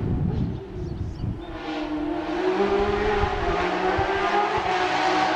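Porsche 997 GT3 rally car's 3.6-litre flat-six race engine at high revs, its note rising about two seconds in and holding as the car nears, growing louder toward the end.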